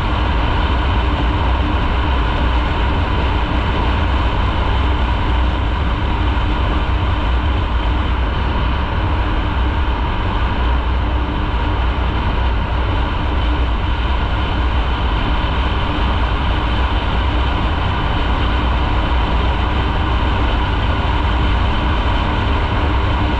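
Motorcycle engine running steadily while riding, a constant low rumble with no change in pace.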